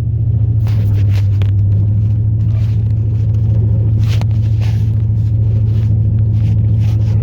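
The 2002 Chevrolet Silverado plow truck's 8.1-litre big-block V8 running steadily while driving, heard from inside the cab as a loud, even low drone with road rumble and a few faint ticks.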